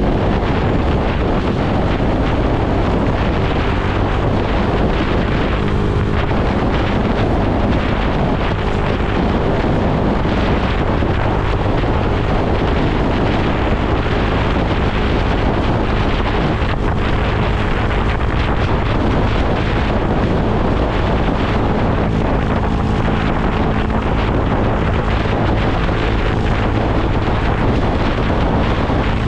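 Wind rushing over the microphone on a moving motorcycle, with the bike's engine running steadily underneath at cruising speed.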